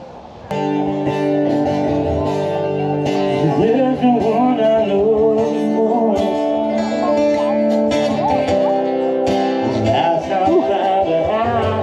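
Live music: acoustic guitar with a singing voice in a country style, starting abruptly about half a second in.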